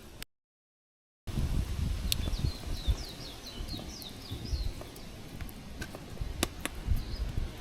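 Forest ambience with a low rumble. A small bird sings a quick run of about eight high notes, and there are a few sharp clicks. The sound cuts out completely for about a second near the start.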